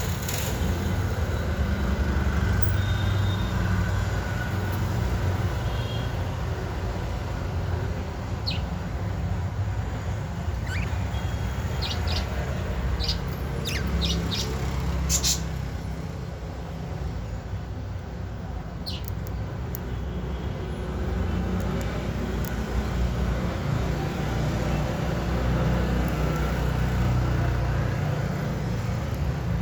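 A few short, high budgerigar chirps, mostly from about eight to fifteen seconds in with one more near nineteen seconds, over a steady low rumble in the background.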